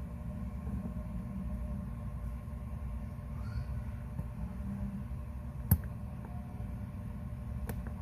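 Steady low background rumble, with one sharp click a little past the middle and a fainter click near the end: small metal tools or watch parts being set down or handled while a watch movement is worked on.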